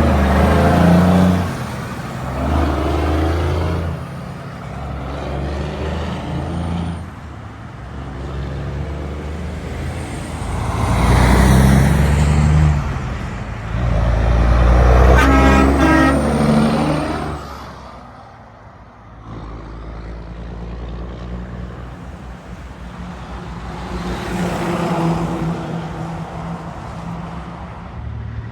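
Heavy trucks and other traffic passing on a road: diesel engines and tyres rising and falling as each vehicle goes by. The loudest passes come about halfway through, two in quick succession.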